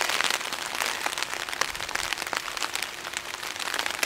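Rain falling: a steady hiss with many small drop hits.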